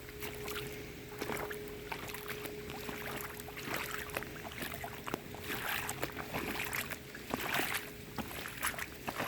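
Footsteps sloshing and splashing through rainwater and puddles, in irregular bursts that are loudest just past the middle, over a faint steady hum.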